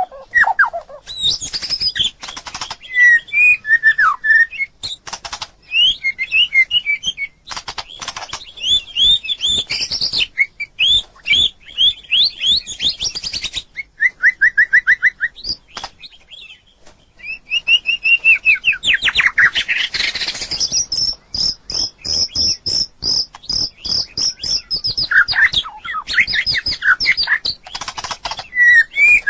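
White-rumped shama singing: varied, rich whistled phrases and trills with rapid repeated notes, including a long run of high notes about two thirds of the way through. Many sharp clicks sound between the phrases.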